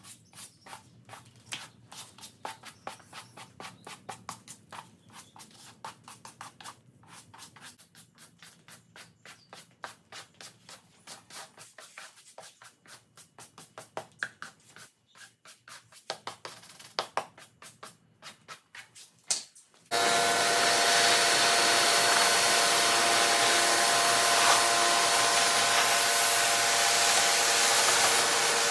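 A quiet run of rapid clicks, about three or four a second. Then, about two-thirds in, a pressure washer starts suddenly and runs loud and steady: a hissing spray over a steady whine.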